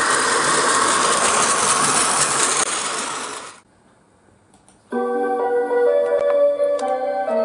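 A steady mechanical running noise cuts off suddenly about three and a half seconds in. After a second of near quiet, keyboard music with held chords begins.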